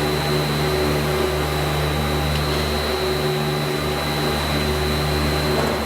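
Battery-powered mobile stretch-wrapping robot running, a steady electric motor hum with a thin high whine held constant throughout.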